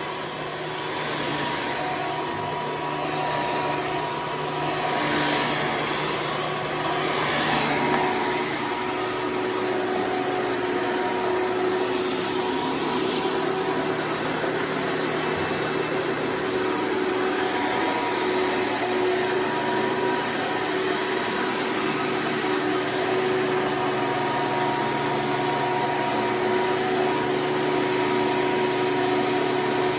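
Hoover Preferred upright vacuum cleaner running steadily as it is pushed over the floor: a constant motor whine and airflow rush with a low hum, shifting slightly as it moves.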